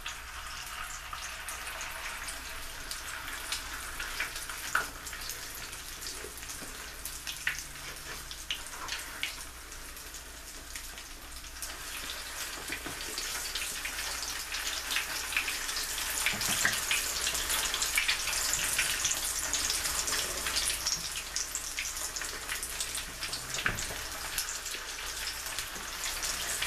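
Salmon patties frying in hot oil in a pan, a steady sizzle full of small crackles and pops. The sizzle grows louder about halfway through.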